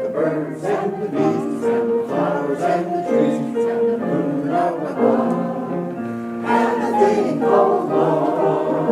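Amateur mixed choir singing a song together, with sustained sung notes that change pitch every half second or so.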